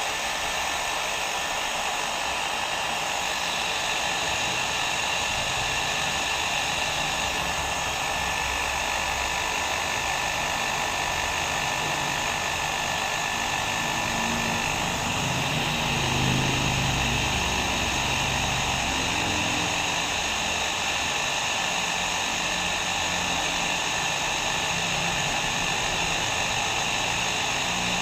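Hair dryer blowing steadily: a continuous rushing airflow with a faint steady whine in the motor's tone, and a slight low rumble that swells about halfway through.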